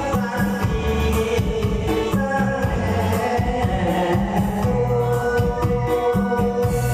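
A song: a singing voice with held notes over instrumental backing with a bass line and a steady beat.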